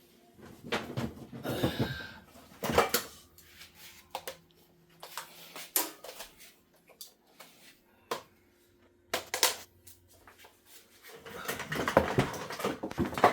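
Handling noises from equipment being unpacked and checked: scattered clicks, knocks and rustles, busiest near the end, with a faint steady hum for a few seconds in the middle.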